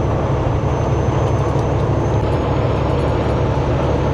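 Steady low drone of a semi-truck's engine and tyres heard inside the cab while cruising at highway speed.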